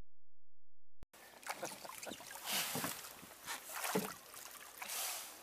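A steady low hum for about a second, then water splashing and sloshing around a small boat in uneven surges.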